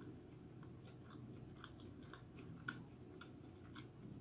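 Faint chewing of a vegetable sushi roll: a run of small mouth clicks, about two or three a second.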